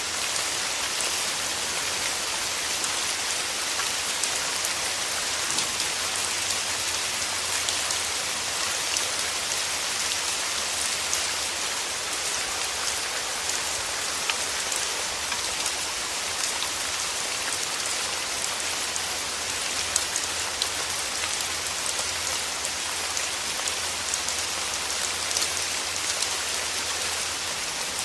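Steady rain, an even hiss with many small, sharp drop ticks scattered through it.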